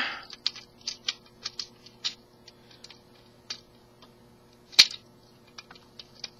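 Small hard plastic clicks and taps of a Transformers Generations Sandstorm action figure being handled while its gun is fitted on, with one louder click about five seconds in, over a faint steady hum.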